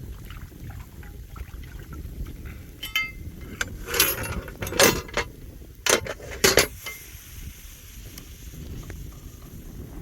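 Metal cookware clinking and clattering as it is handled: a handful of sharp clinks and knocks between about three and seven seconds in, the first with a brief metallic ring, over a low steady background rumble.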